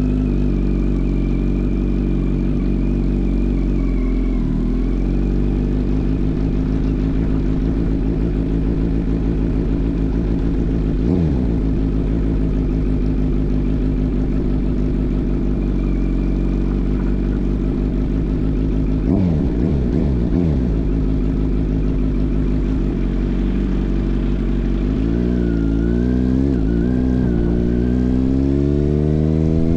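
Kawasaki Z900 inline-four running through an aftermarket AR exhaust while riding: a steady engine note with a few brief drops in revs, then the revs climb steadily under acceleration near the end.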